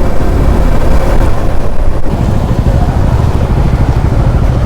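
Motorcycle riding on the road: the engine running steadily under heavy wind buffeting on the rider's microphone.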